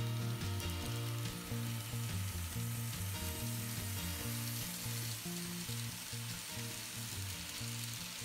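Model trains rolling past on the layout track: a steady hiss of metal wheels on the rails as a long train of cars goes by, growing brighter in the second half.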